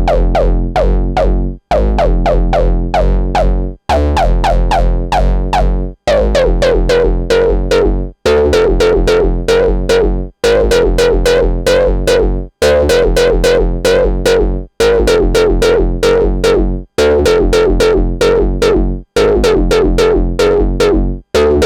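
Distorted, growling synth bass riff from the Monarch software synth, played as a loop with its filter cutoff and feedback turned up, over a deep low bass. The phrase repeats about every two seconds, with a short break between repeats.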